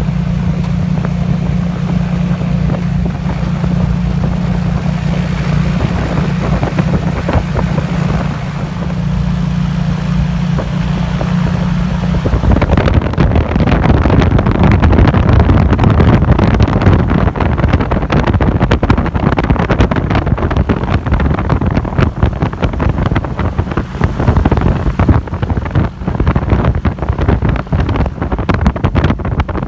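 T-34 Mentor propeller aircraft engines droning steadily overhead. About halfway through, the drone is swamped by loud, crackling wind buffeting on the microphone.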